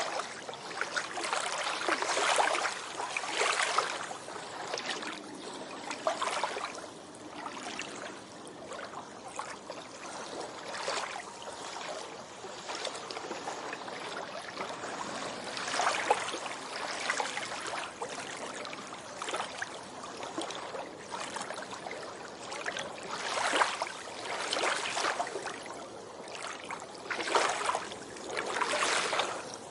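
Small waves washing up on a beach, a steady hiss of water that swells into a louder splashing surge every few seconds.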